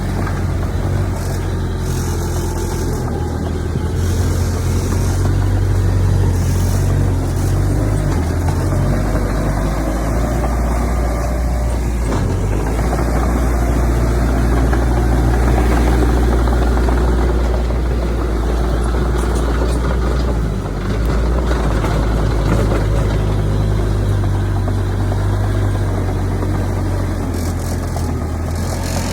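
Heavy diesel earthmoving machinery, a bulldozer working with dump trucks, running with a steady low engine rumble that swells and eases, briefly dropping about twenty seconds in.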